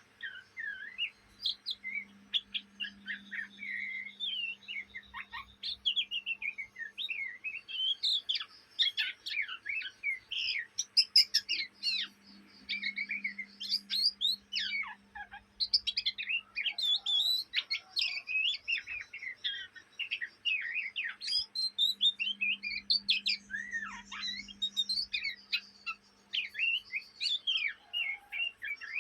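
Young oriental magpie-robin singing a continuous, rapid run of varied chirps, twitters and short whistled slides. This is the steady chattering ('ngriwik') typical of a juvenile kacer.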